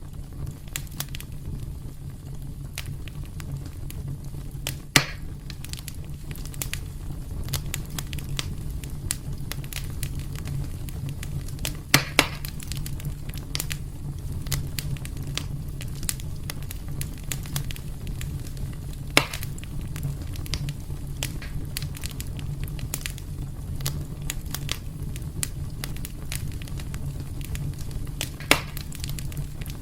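Wood fire burning in a fireplace: a steady low rumble of flames under constant small crackles. About four louder pops stand out, one of them a quick double pop near the middle.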